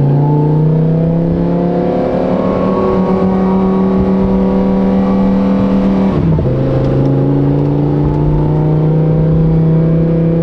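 Supercharged Lamborghini Huracán EVO's V10 running through a titanium race exhaust under acceleration, its pitch climbing steadily. About six seconds in, an upshift drops the revs sharply, and then the pitch climbs again.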